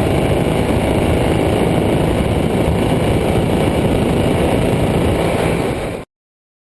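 KTM 1290 Super Duke R's V-twin engine running, a loud steady dense noise that dips briefly and then cuts off suddenly about six seconds in.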